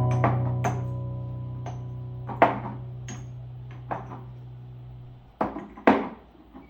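Slow piano music with held notes slowly dying away and stopping about five seconds in. Over it come several sharp clinks and knocks of hard objects being handled, the loudest two about two and a half seconds in and near the end.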